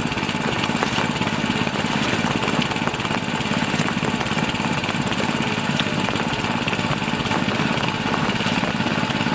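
Engine-driven water pump running steadily at a constant speed.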